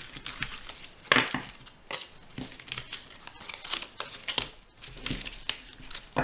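Tarot cards being gathered and handled on a table: a run of irregular crisp rustles and light card slaps.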